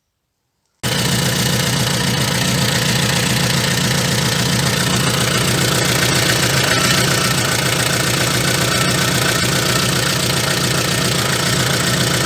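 VAZ-2114 car engine running steadily at idle with a newly fitted damper pulley, alternator belt and timing belt; the sound cuts in abruptly about a second in.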